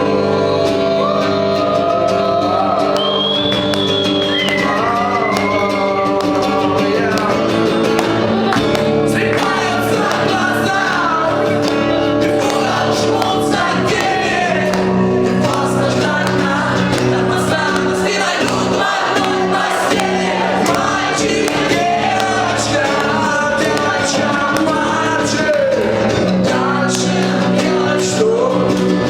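Live acoustic band music with singing, strummed acoustic guitar and other voices joining in, in a large room.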